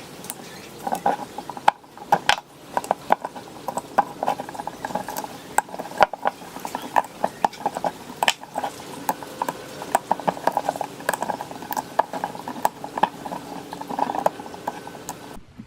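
Dense, irregular clicking, tapping and scraping of parts of an old ceiling fan being worked on by hand.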